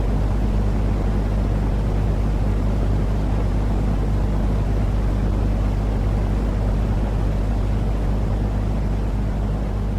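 Continuous droning noise for infant sleep, heavy in the bass with a constant low hum under it and no change in pitch or rhythm.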